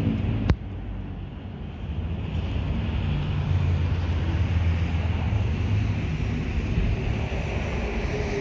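A 1994 Honda Civic hatchback's inline-four engine running with a steady low hum. A single sharp click comes about half a second in, the sound drops away briefly, then the hum builds back up from about two seconds in.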